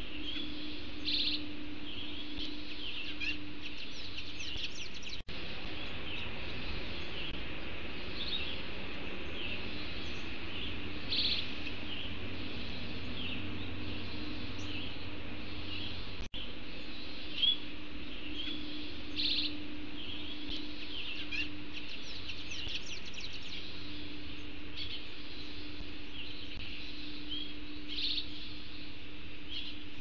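Birds chirping: many short, high chirps and calls over a steady low hum. The sound cuts out for an instant twice.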